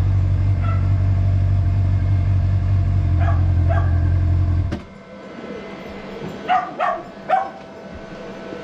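Honda motorcycle engine idling steadily, then switched off suddenly about halfway through. A dog barks through it, faintly over the engine and then three sharp barks in quick succession once the engine has stopped.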